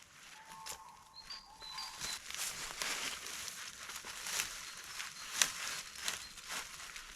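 Irregular rustling and crackling, with a couple of short, faint whistled notes about a second in.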